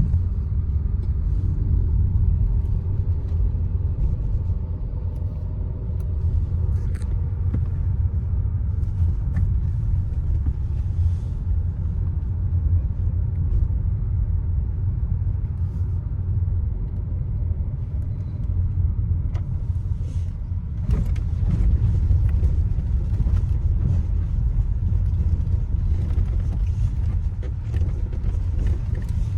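Hyundai Creta being driven, a steady low rumble of road and engine noise with scattered faint clicks.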